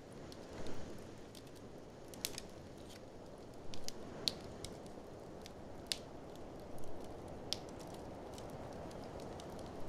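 Fireplace fire crackling, with irregular sharp pops about once a second over a steady low rushing noise.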